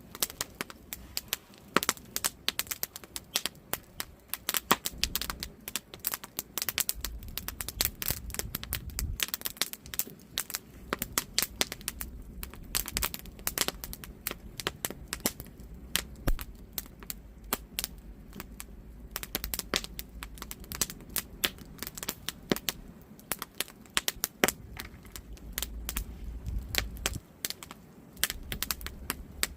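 Wood campfire crackling and popping: many sharp irregular snaps over a low, soft rumble of burning logs.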